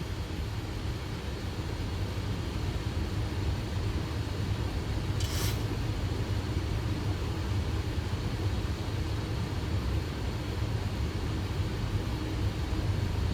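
Steady rumble of airflow and engines in a Boeing 737 cockpit on final approach, with a short hiss about five seconds in.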